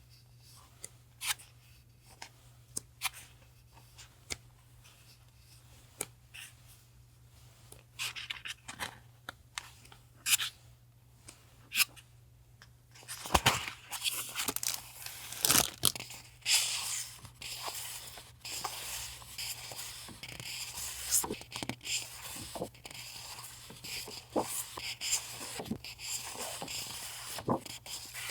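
Parcel packaging being opened by hand: a few light clicks and taps at first, then from about halfway through, continuous tearing and crinkling of the wrapping.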